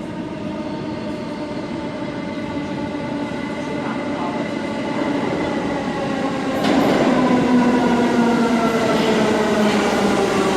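R68A subway train arriving on freshly ground rail. The wheels on the new grind make a singing whine of several tones together over the rumble, falling slowly in pitch as the train slows. It grows suddenly louder about two-thirds of the way in as the cars come close.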